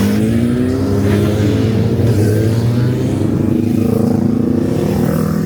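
Car engine running steadily under light throttle while driving, its pitch drifting gently up and down.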